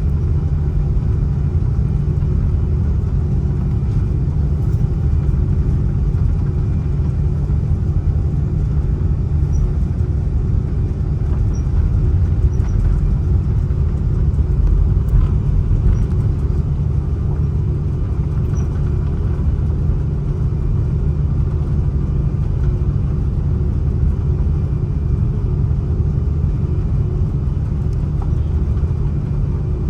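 Steady low rumble in the cabin of an Airbus A330-300 airliner, unchanging throughout.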